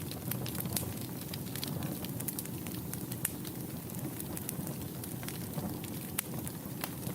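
Wood fire burning in a fireplace: a steady low hiss and rumble of flames with frequent irregular crackles and pops, a few louder snaps among them.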